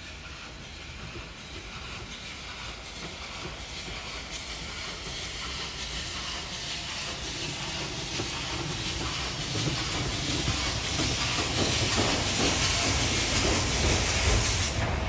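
Steam locomotive approaching, its steam hiss and running noise growing steadily louder, the hiss strongest near the end.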